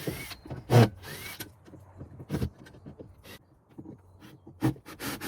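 Irregular knocks, clunks and scraping as the old homemade drop rod is worked off a shed door. The loudest knock comes under a second in, and there are a couple of short rising squeaks in the first second or so.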